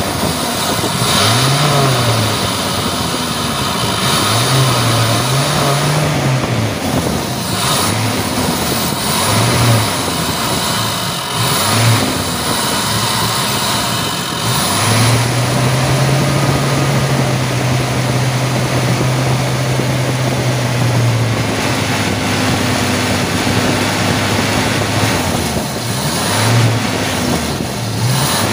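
Toyota Kijang 7K carburettor four-cylinder engine being blipped again and again, its note rising and falling, then held at raised revs for about six seconds midway. Carburettor cleaner is being drawn in through the carburettor as an engine flush, to burn off carbon deposits in the cylinder head.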